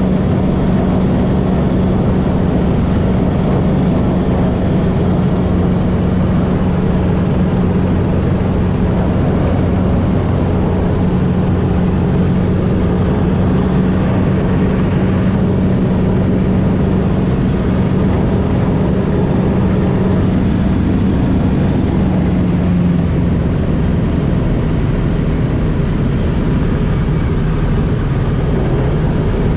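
Pchelka-7 light aircraft's propeller engine running steadily with an even hum, its pitch dropping slightly about 23 seconds in.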